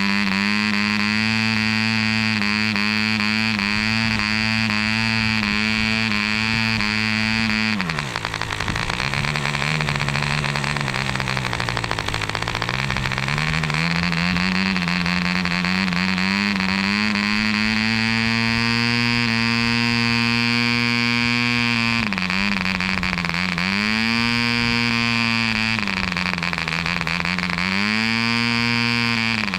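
Indian-made Mills 0.75 cc model diesel engine running fast while turning a propeller, with a high, steady buzz. About eight seconds in its speed suddenly drops to roughly half, then slowly climbs back. Later it sags and picks up again twice.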